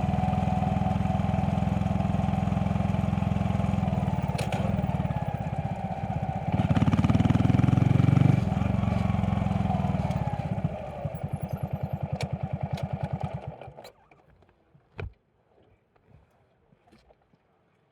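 Honda Monkey 125's single-cylinder four-stroke engine running, revving up briefly about seven seconds in, then dropping to a slow idle with each firing stroke distinct before it is switched off about 14 seconds in. A few faint clicks follow in the quiet.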